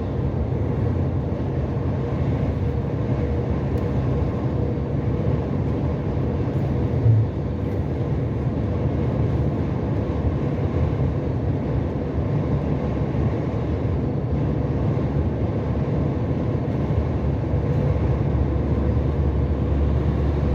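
Steady drone of a truck cab at highway speed: engine and road noise, with a faint steady hum and one short knock about seven seconds in.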